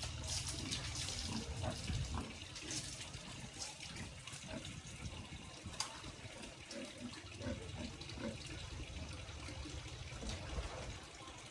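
Water running and splashing steadily, with small irregular clicks and one sharper knock about six seconds in.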